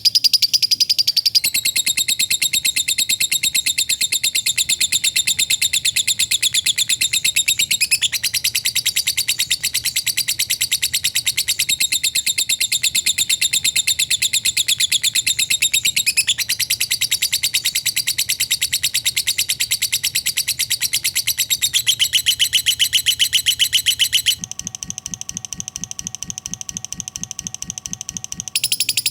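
Lovebird ngekek: a long, very fast, unbroken chattering trill of rapidly repeated high notes. It drops quieter about 24 seconds in and comes back up just before the end.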